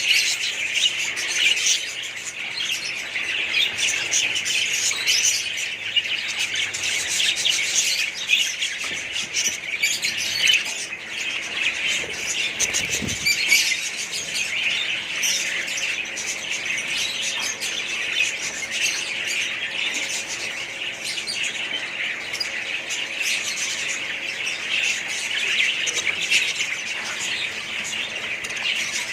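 A crowd of caged small parrots, budgerigars among them, chattering and squawking all at once in a dense, continuous din.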